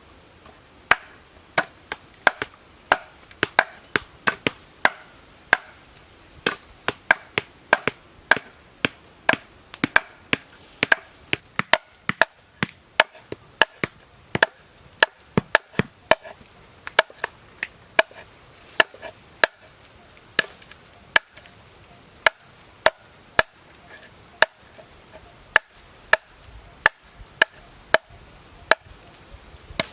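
Steady chopping with a knife or cleaver on a wooden board, about two sharp chops a second in an uneven rhythm, starting about a second in.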